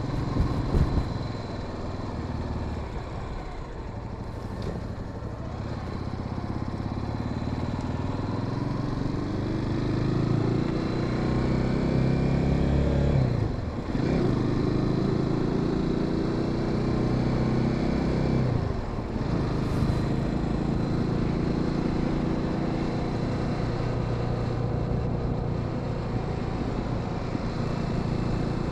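Honda Sahara 300 motorcycle engine running under way and accelerating, its pitch climbing through the gears, with two sharp drops at upshifts about halfway through and again some five seconds later.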